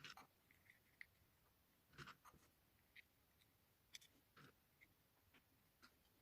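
Faint, irregular light clicks and taps of small pieces being handled and set down on a work surface, about eight in all.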